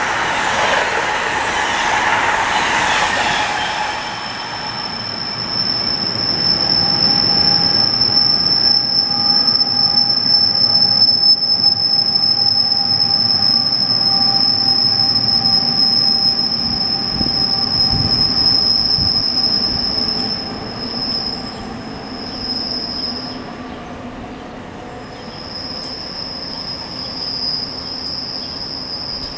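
Amtrak Northeast Regional train's coaches rushing past at speed for the first few seconds. Then a steady high-pitched wheel squeal takes over, breaking up and returning near the end, over the low rumble of an NJ Transit push-pull train of multilevel coaches pulling out.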